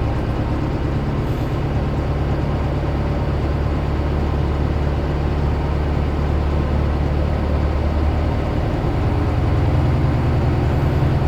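1993 Mercedes 609D diesel engine running steadily at a raised fast idle just after a cold start without glow plugs, partly on vegetable oil. Its low note shifts slightly about eight seconds in.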